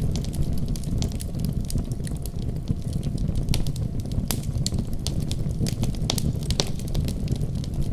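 Wood fire crackling, with frequent irregular sharp pops and snaps over a steady low rumble of flame.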